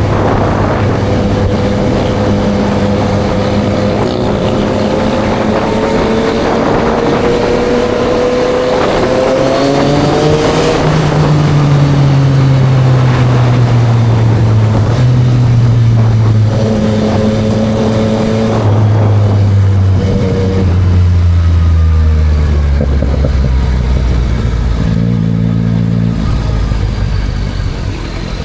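Yamaha MT-09 SP's inline-three engine through a Spark full exhaust, heard from the rider's seat: engine pitch climbs under acceleration for about ten seconds, then falls steadily as the bike slows, with a few quick shifts near the end. A steady rush of wind and road noise runs underneath.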